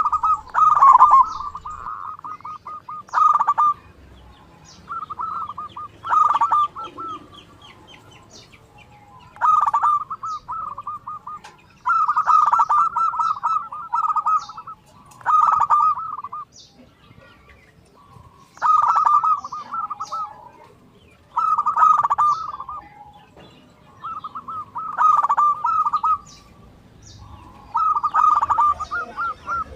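Zebra dove (perkutut) cooing: phrases of quick, fluttering notes, each one to two seconds long, repeat roughly every three seconds. Thin, high chirps are scattered among them.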